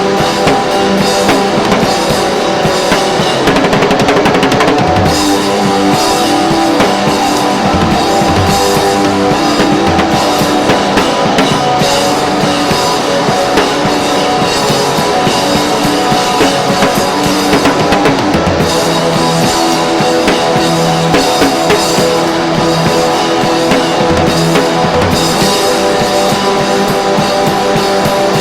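Loud rock music with a full drum kit and guitars, played without a break.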